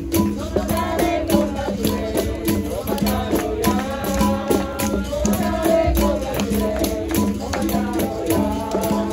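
Capoeira roda music: berimbaus played in a steady repeating rhythm with caxixi rattles and hand percussion, under wavering group singing.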